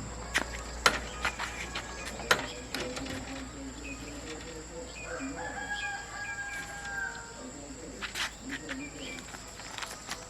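A rooster crowing once, one long held call about halfway through, with a few sharp knocks before and after it.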